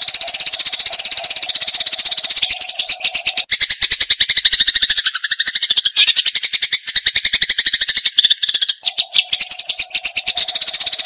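Eurasian tree sparrows giving agitated fighting calls: a loud, very fast unbroken string of sharp chirps. The notes drop lower in pitch through the middle, then go back to the higher chatter near the end.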